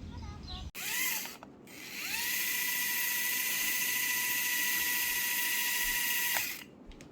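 Small electric motor of a toy helicopter spinning up: a short rising whine, a brief dip, then a second spin-up to a steady high whine with gear noise that holds for about four seconds and then winds down.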